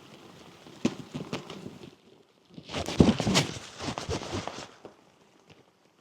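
Flies trapped under a bicycle cover, knocking and rustling against the cover: irregular ticks and taps, with a louder stretch of rustling about halfway through.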